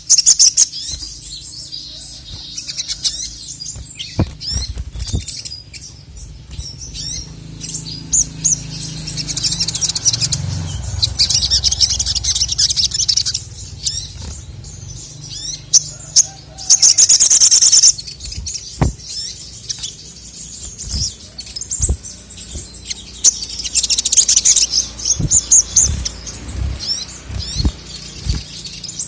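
Male sogok ontong (sogon) songbird singing continuously: a stream of high, quick chirps broken by several bursts of dense, rapid trilling.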